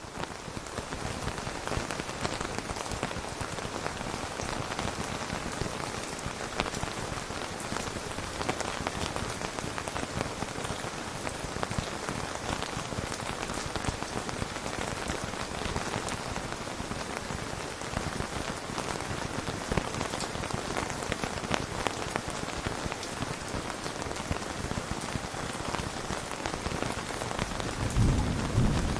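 Steady rain falling on a surface, with a low rumble of thunder building near the end.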